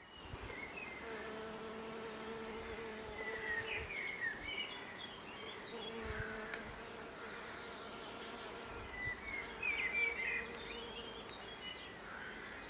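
Bees buzzing steadily, with a few short bird chirps coming in about three seconds in and again near ten seconds.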